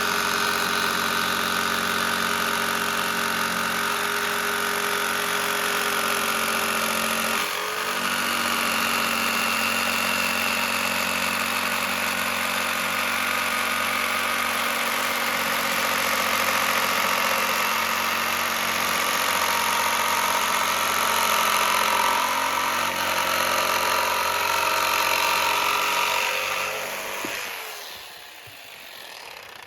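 A motor or engine running steadily, with a brief dip about seven seconds in. Near the end it shuts off and winds down.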